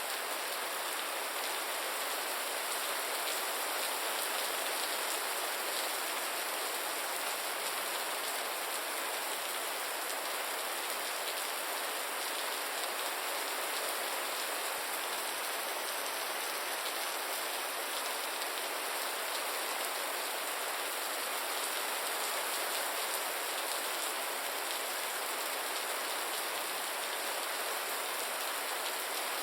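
Gentle rain falling steadily, an even hiss with no change in strength.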